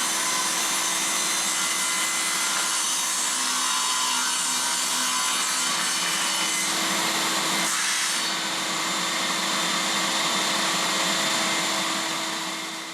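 Electric power saw cutting through plywood with a steady motor hum and the rasp of the blade in the wood, then running down and stopping just before the end.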